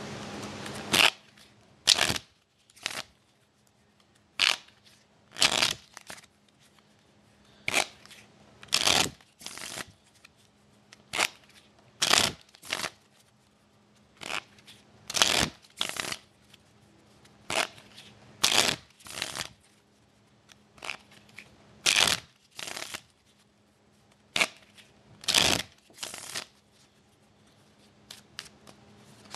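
A stack of hockey trading cards being shuffled by hand: short swishes of cards sliding past each other, about one a second, in groups of two or three with brief pauses between.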